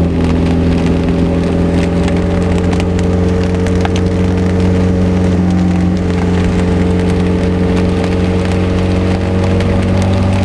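Morgan 4/4 engine running at a steady cruise, a constant low drone, under a dense crackling patter of heavy rain hitting the car.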